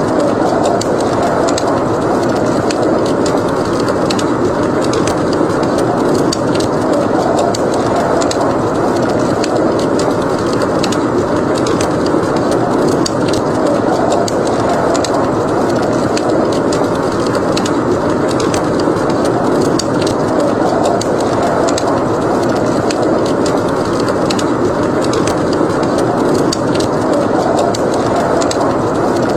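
Snowstorm wind blowing steadily, swelling and easing in slow gusts, with a wood fire crackling in many small pops throughout.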